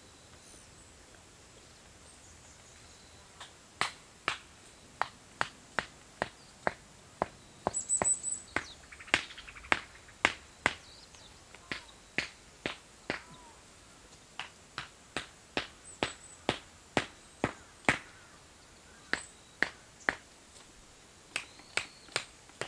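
A series of sharp strikes or knocks, roughly two a second, starting a few seconds in, with a short quicker flurry about eight seconds in.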